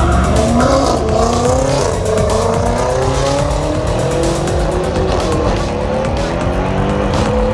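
Car engine held at high revs, its pitch wavering up and down, while the tyres squeal in a burnout.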